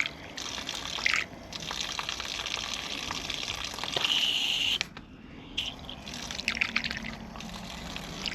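Water running in a steady splashing stream from a partly opened outdoor hose valve that has just been soldered. It is running at low flow before being opened fully to check the repair for leaks. The stream is louder for a moment about four seconds in, then drops off suddenly just before five seconds and runs on more quietly.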